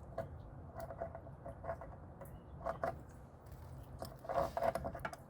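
Light clicks and scrapes of pliers and metal parts being worked by hand, coming in a quicker cluster about four seconds in, over a low steady hum.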